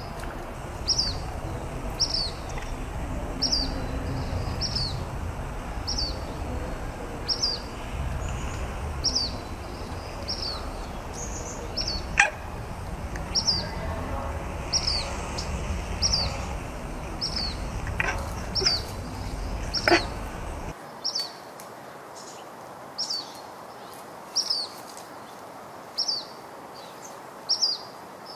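A bird repeating one short, high, falling chirp about once a second, over a low rumble that drops away about two-thirds of the way through, with a few sharp clicks.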